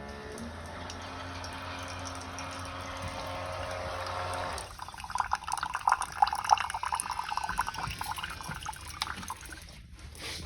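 Keurig single-serve coffee maker brewing: a steady pump hum for the first half, then from about halfway in a spattering, sputtering stream of liquid dripping and spurting out. The cup is not filling, which is taken for the water reservoir running out.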